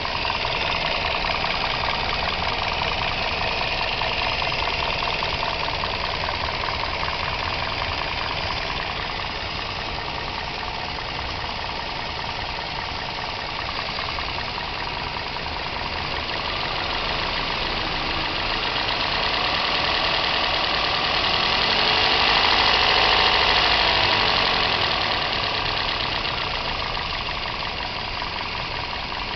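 Toyota 1NZ four-cylinder engine running warm with a steady knock, the revs rising slowly once about two-thirds through and settling back to idle. The knock is the fault being shown, present with the engine hot.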